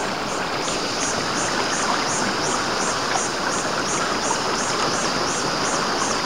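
Stream water rushing steadily over rocks, with a high-pitched buzz pulsing about three times a second above it.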